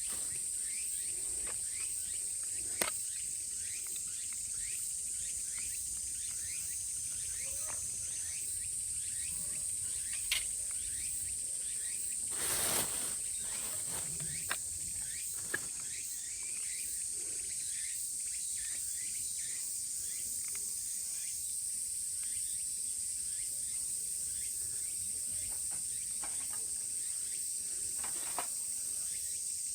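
Steady high-pitched chorus of summer cicadas. A few sharp clicks and knocks sound over it, and about halfway through there is a louder, half-second rustle.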